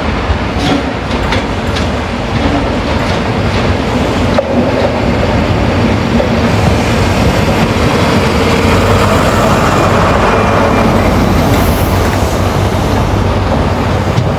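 A train running along the platform tracks, its wheels clicking over rail joints in the first couple of seconds, the running noise growing louder as it comes closer.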